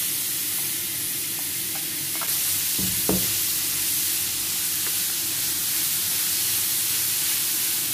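Seasoned grated coconut sizzling steadily as it is dry-roasted on a hot flat pan, with a spatula stirring and scraping through it; a few sharper scrapes about three seconds in.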